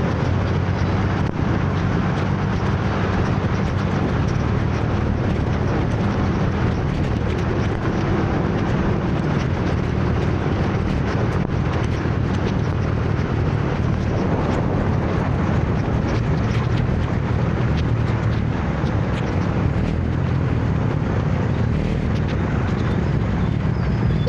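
Steady rumble of a motor scooter riding through city traffic, engine hum mixed with road and traffic noise at an even level.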